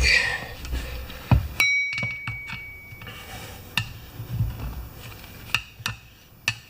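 Metal tire tools knocking against a steel wheel rim on a manual tire changer. There are a few sharp clanks, and one rings out with a clear ping for a little over a second.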